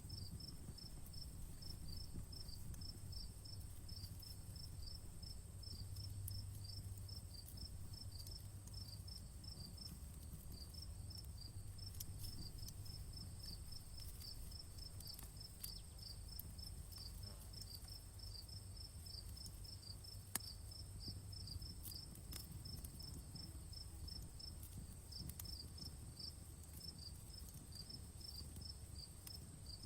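Crickets chirping in quick, even pulses alongside a steady high insect trill, over a wood fire's faint scattered crackles. One sharper pop about twenty seconds in.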